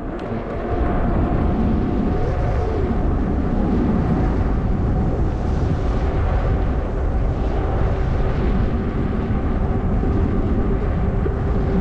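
Wind rushing and rumbling over a helmet-camera microphone on a moving e-bike, with road noise and a faint steady hum underneath.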